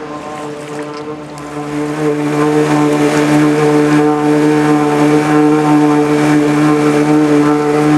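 Engine of a home-built amphibious Subaru car-boat running at a steady note, getting louder about two seconds in and then holding.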